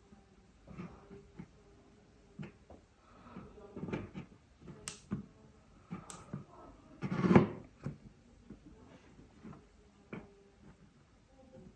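Small parts being handled at a workbench: scattered light clicks, taps and rustles of plastic and hands, with one louder clatter about seven seconds in.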